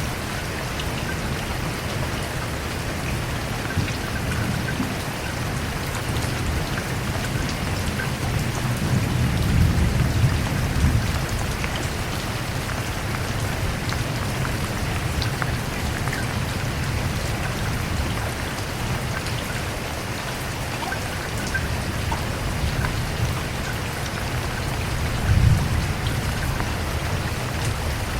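Steady rain falling, with low rolls of thunder that swell twice, about ten seconds in and again near the end.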